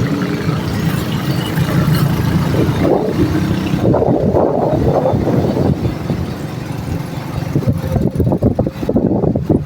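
City road traffic heard from a moving vehicle: engines and tyres make a steady rumble. From about halfway through, wind buffets the microphone in irregular gusts.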